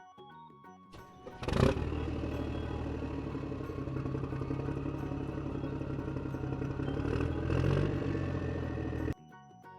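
A vehicle engine starts with a sudden loud whoosh about a second and a half in, then runs steadily and cuts off suddenly near the end, over soft background music.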